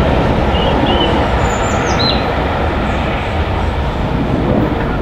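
Departing steam-hauled special train with a diesel locomotive coupled at the rear: a steady, loud rumble of the diesel and the wheels on the rails, slowly fading. A bird chirps a few times between about half a second and two seconds in.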